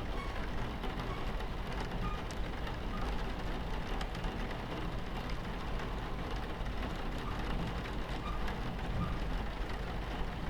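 Steady low rumble of a train running along its tracks, as heard from inside a carriage, mixed with rain pattering on the window and scattered small clicks and rattles.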